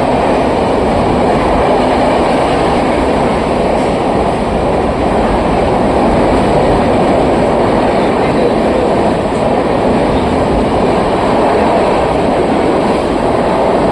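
Train hauled by a WAP-7 electric locomotive running through a station at speed: a steady, loud rush of wheels on rails with no break.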